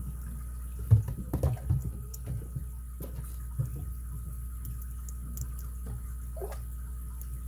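Lock pick and tension wrench working the pins inside an ABUS 83CS/55 padlock: a cluster of sharp clicks and taps about a second in, then scattered faint ticks. A steady low hum runs underneath.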